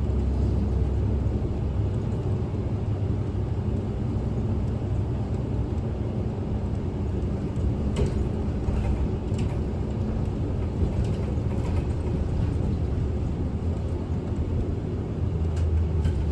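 Interior of a Kyoto City bus on the move: steady low engine hum and road rumble, with a few faint clicks and rattles partway through.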